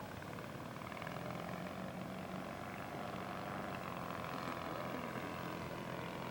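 Engine of a quarter-scale radio-controlled model airplane running steadily in flight, a droning note that grows a little louder about a second in.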